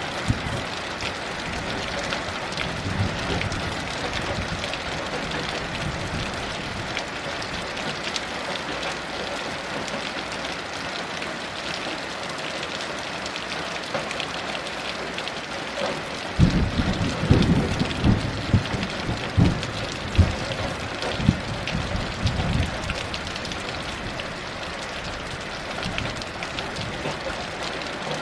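Heavy rain falling steadily. About two-thirds of the way through comes a rumble of thunder with several louder low surges, lasting about six seconds.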